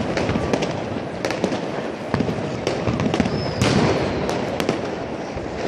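New Year's fireworks and firecrackers going off all around: a dense, irregular crackle of bangs and pops over a constant din, with a short whistle about three and a half seconds in.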